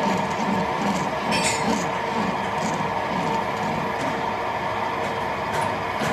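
Factory machinery running with a steady high hum and rumble, and a sharp metallic clink about a second and a half in.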